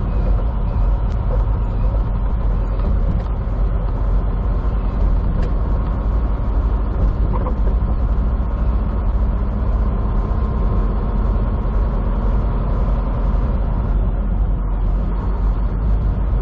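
Steady engine drone and road noise inside a semi truck's cab while driving.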